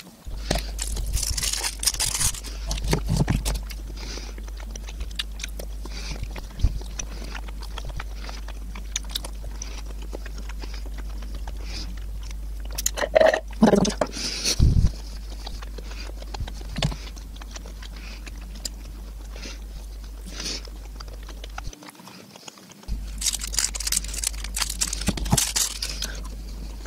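Close-up chewing and biting of imitation crab sticks (surimi): soft, wet mouth sounds and clicks, with a steady low hum underneath.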